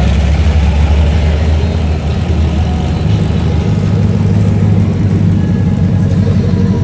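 Car engine idling loudly nearby with a deep, steady note; the low end of the note shifts about two to three seconds in.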